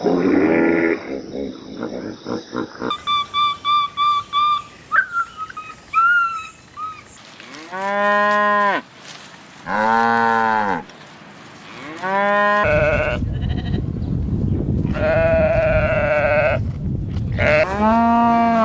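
Sheep bleating: a series of drawn-out bleats, each rising and falling in pitch, coming every second or two through the second half. Before them come several seconds of short, quick high chirps.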